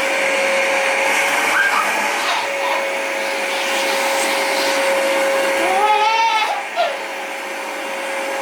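Household vacuum cleaner running steadily with a constant whine. About six seconds in, a baby gives one short vocalisation that rises and falls in pitch.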